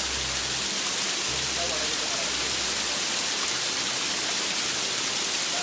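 Steady rush of falling water from a small hill waterfall whose flow is running low.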